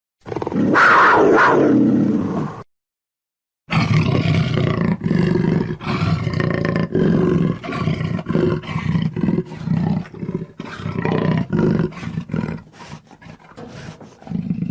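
Jaguar roaring: one loud call of about two seconds, then after a short gap a long run of rough, pulsing roars and growls.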